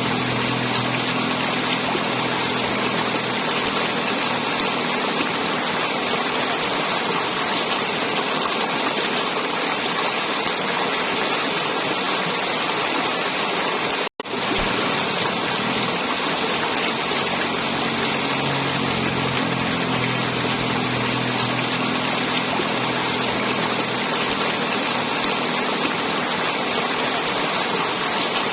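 River water flowing and gurgling in a steady rush, with a low hum underneath at the start and again in the second half. The sound cuts out for a split second about halfway through.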